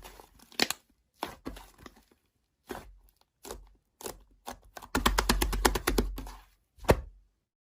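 A series of sharp clicks and cracks at irregular intervals, then a fast rattling run of them about five seconds in, and one last click just before it stops.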